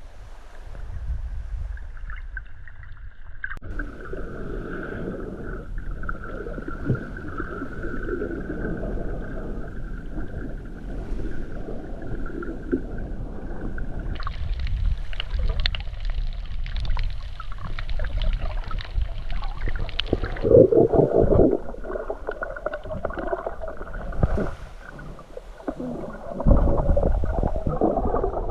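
Underwater audio picked up by a camera in a waterproof housing: muffled water sound with gurgling and bubbling. Its character changes abruptly a few times, and between about 14 and 20 seconds in it carries a brighter crackle.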